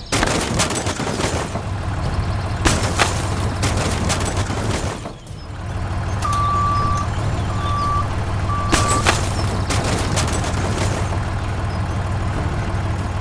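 Vehicle engine running with a steady low hum and crackling noise. It dips briefly about five seconds in, then carries on while a reversing alarm gives three short beeps.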